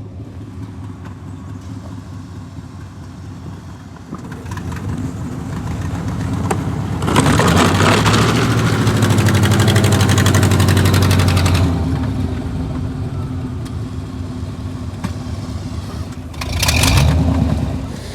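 A vehicle engine running, its revs building about four seconds in and held high with a loud rushing noise for about five seconds before easing back to a lower steady run. A short loud burst comes near the end.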